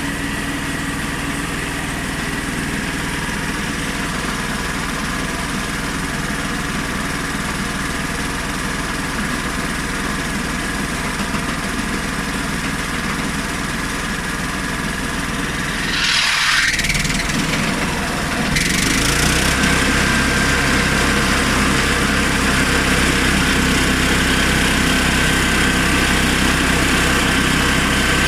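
Honda GX390 single-cylinder petrol engine of a homemade portable sawmill running steadily. About two-thirds of the way through the sound shifts with a brief sweep, and then it settles into a louder, steady run.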